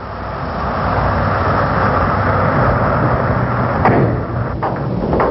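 Gasoline-engined tractor-trailer truck's engine running as the truck gets under way, growing louder over the first second and then holding steady, with a few short clicks near the end.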